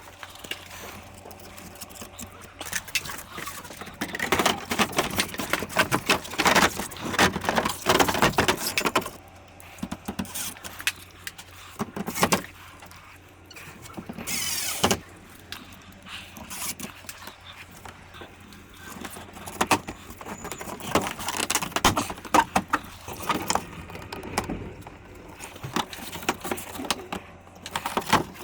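Irregular clicking, clattering and rattling of hard parts being handled during work on a wall-mounted air conditioner, with a short loud hiss about fourteen seconds in.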